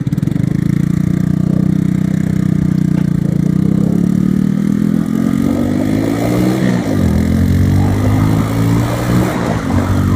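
Motorcycle engine under way. It holds a steady note, then revs up for a couple of seconds before dropping sharply in pitch about seven seconds in as it shifts up a gear, and pulls on steadily.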